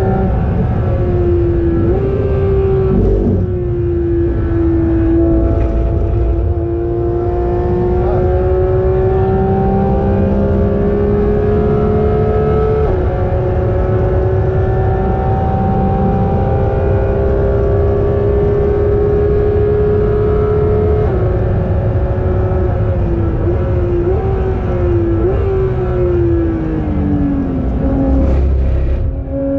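Porsche naturally aspirated 4.0-litre flat-six under load on a race track, heard from inside the cabin over tyre and road rumble. The engine note climbs steadily with brief breaks at gear changes, then falls away with downshift blips near the end as the car slows for a corner.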